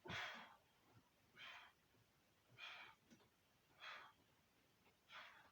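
A man breathing hard with effort while doing bodyweight dips on dip bars: five forceful breaths, evenly spaced about a second and a quarter apart, one per rep.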